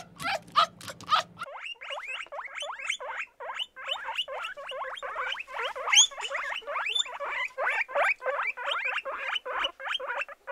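An animal making rapid, repeated high squeaking calls, several short calls a second.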